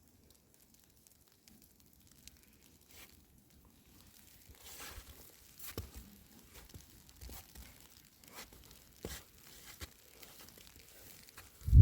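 Scattered crackling and rustling handling noises, with one heavy thump near the end.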